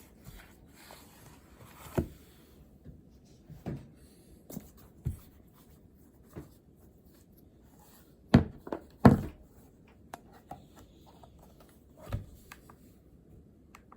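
Scattered light knocks and handling sounds on a desk, with two louder thumps a little past the middle.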